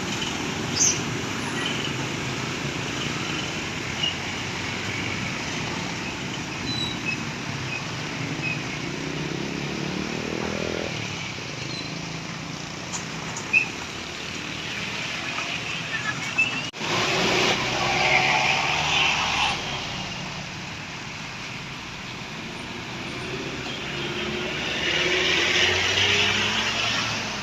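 Heavy truck traffic on a road: engine running with tyre and road noise, and an engine revving up about ten seconds in.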